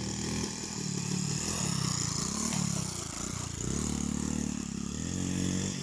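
Engine of a small off-road vehicle revving up and down as it drives across snow, its pitch rising and falling several times.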